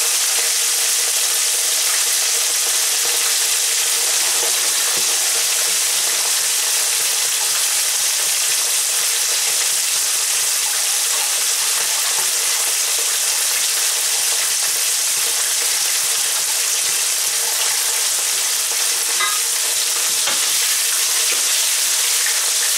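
Starch-coated chicken strips deep-frying in hot oil in a frying pan, sizzling steadily. Near the end a wooden spatula stirs and turns the pieces in the oil.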